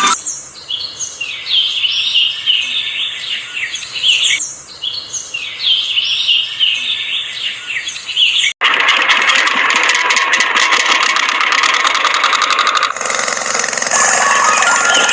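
Birds chirping in quick repeated calls, then about eight and a half seconds in an abrupt cut to a motor running with a fast, steady rattle.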